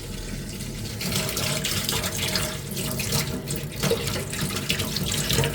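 Water splashing and dripping in a basin as a small armour piece is handled underwater during wet sanding with waterproof sandpaper.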